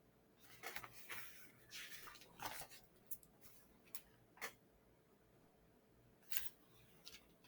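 Faint paper rustling and a few soft clicks from a picture book being handled as its pages are turned, the rustling in the first few seconds and single clicks later on.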